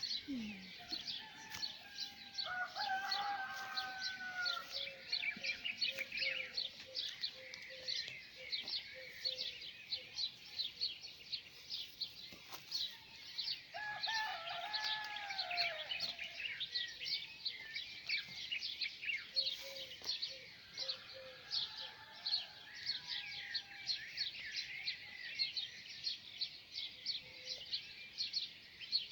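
Dawn chorus of many small birds chirping rapidly and continuously. A rooster crows twice, once a couple of seconds in and again about halfway. Another bird repeats low notes in short runs.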